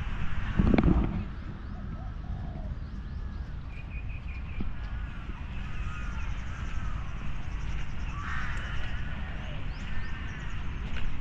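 Small birds chirping and calling in short repeated phrases over a steady low rumble of distant city noise, with a brief loud thump about a second in.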